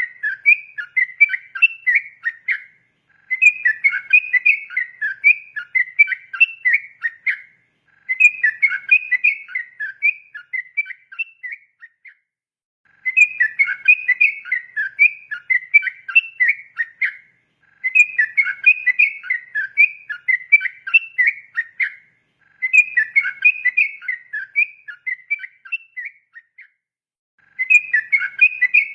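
Yellow-vented bulbul (trucukan) singing its fast 'ropel' song: bursts of rapid, bubbling whistled notes about four seconds long, repeated again and again with pauses of about a second between them.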